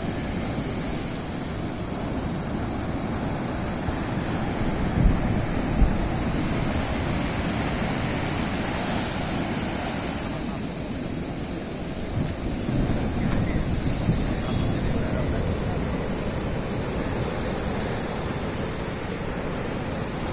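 Sea surf washing onto a beach: a continuous rush of breaking waves, swelling louder about twelve seconds in, with wind buffeting the microphone and two brief low thumps about five seconds in.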